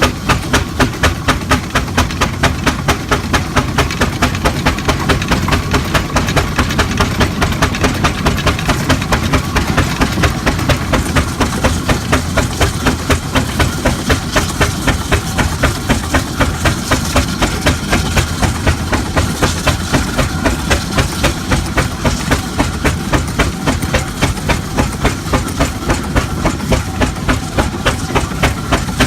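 Marshall steam traction engine running with a steady chuff, about three even exhaust beats a second.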